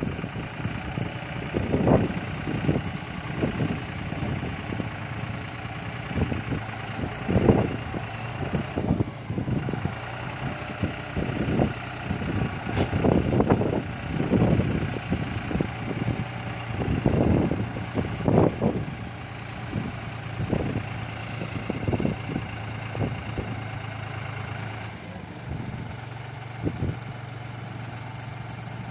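Tractor engine running steadily, with irregular low thumps and rumbles throughout.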